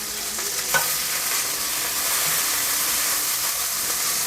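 Hot oil sizzling steadily in a frying pan used to fry chicken thighs, with one light click about a second in, after which the sizzle is a little louder.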